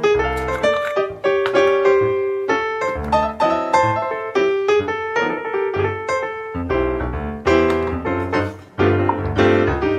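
Background piano music: a tune of quick notes over low bass notes.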